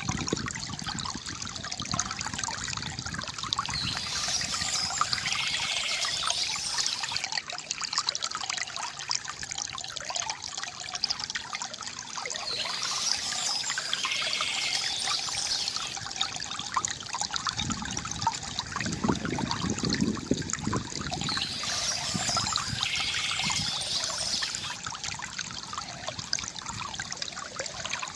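Water trickling and pouring steadily from a bamboo fountain into a basin, with brighter splashy patches coming back about every eight or nine seconds and a deeper gurgle about two-thirds of the way through.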